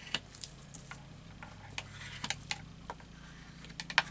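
Light, irregular clicks and taps of paper cut-outs and craft tools being handled on a work surface, over a steady low hum.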